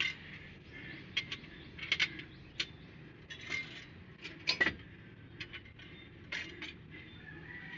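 Irregular metallic clicks and clinks of hand tools working on engine parts, several a second at times, with one louder clank about four and a half seconds in.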